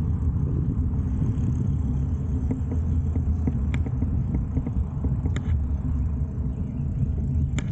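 Steady low rumble of riding on a bike, mostly wind buffeting the microphone mixed with road noise, with a few faint clicks.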